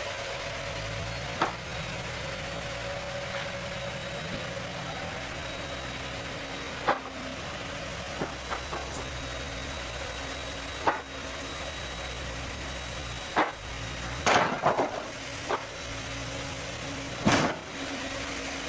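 Mobile sawmill's engine running steadily, with sharp knocks every few seconds and a cluster of them in the last third.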